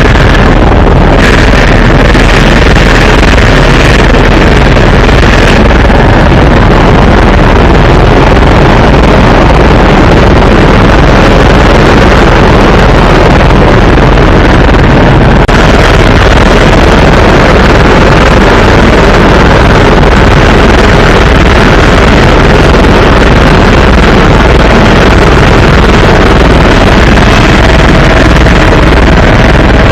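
Helicopter engine and rotor running loudly and steadily, with a low pulsing throb from the rotor, heard from inside the cabin. The tone shifts slightly about halfway through.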